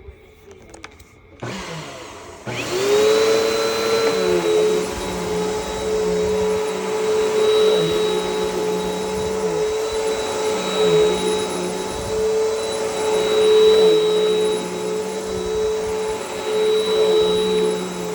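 Bissell Power Force Helix upright vacuum cleaner starting about one and a half seconds in, its motor spinning up to a steady whine a second later, then running on carpet with its pitch dipping slightly now and then.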